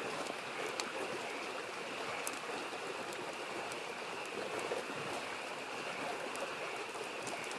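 A mountain stream babbling steadily, with a steady high-pitched frog chorus behind it and scattered sharp crackles from a wood campfire.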